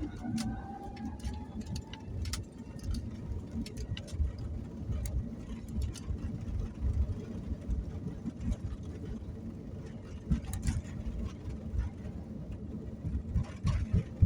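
Airliner cabin during takeoff: a heavy, uneven low rumble of the engines and wheels on the runway, with frequent small rattles and clicks from the cabin fittings. A faint rising engine whine fades out in the first two seconds.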